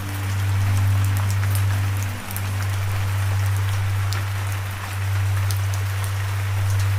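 Steady rain falling, with individual drops ticking sharply over an even hiss. Under it a low held droning tone from background music is the loudest sound; it dips briefly about two seconds in and again near five seconds.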